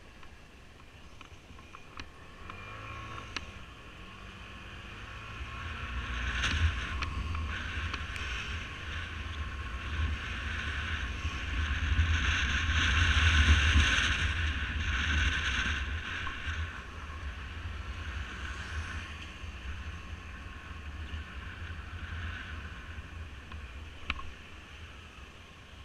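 A motor vehicle's engine running. It grows louder to a peak about halfway through, then slowly fades, with a few sharp clicks.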